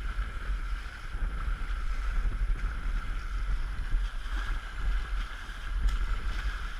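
Wind buffeting the microphone with a heavy, fluttering rumble, over a steady hiss of water rushing past a small sailboat under way.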